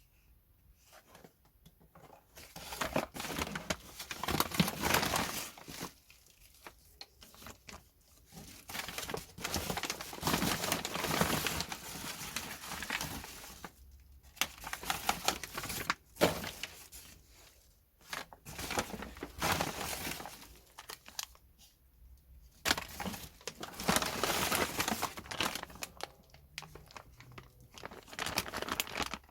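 Crinkling and rustling handling noise in several stretches of a few seconds each, with quiet gaps between.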